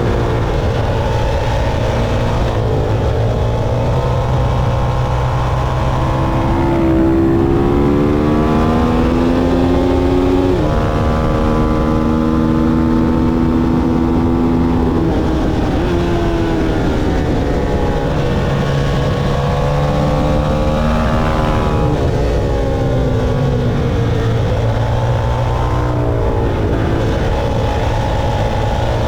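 Motorcycle engine at full track speed, its pitch climbing and dropping back again and again as the bike accelerates through the gears and slows for corners, over a steady rushing noise.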